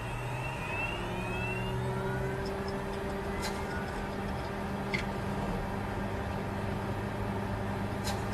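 Bitcoin mining computer running: a steady machine whir with a low hum, a faint rising whine in the first couple of seconds, and a few light clicks.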